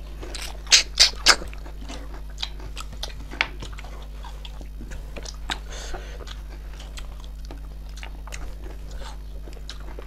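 Close-miked chewing and mouth sounds of someone eating snail curry. About a second in come three loud sharp sounds in quick succession, followed by steady soft wet chewing clicks over a low steady hum.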